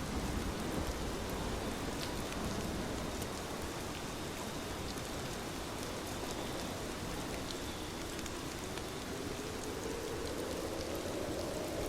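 Steady rain falling, a continuous hiss with scattered individual drop ticks.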